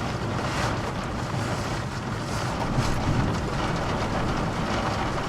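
Steady rushing wind noise on the microphone over a low rumble.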